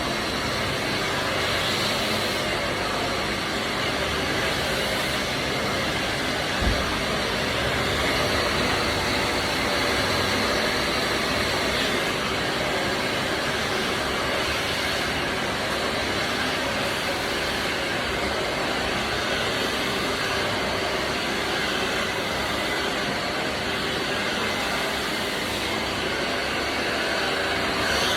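Handheld hair dryer blowing steadily during a blow-dry, an even rushing hiss, with one soft bump about seven seconds in.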